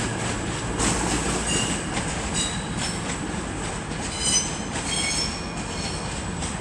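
A pair of CrossCountry Class 221 and Class 220 Voyager diesel-electric units running slowly over curved pointwork, their wheel flanges squealing high and on and off over a steady underfloor-engine and rolling rumble.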